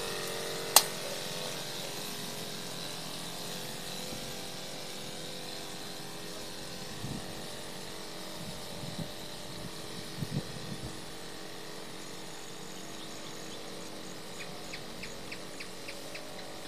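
Steady mechanical hum of a motor, fading over the first few seconds, with one sharp click under a second in and faint regular ticking near the end.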